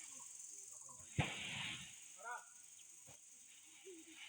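Insects chirping steadily and faintly outdoors. About a second in there is a sharp knock, followed by a hiss lasting about half a second.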